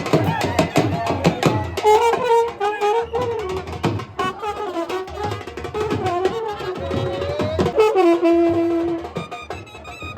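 Live band music: a wind instrument plays a wavering, gliding melody over rapid drum strikes, ending with one long held note near the end.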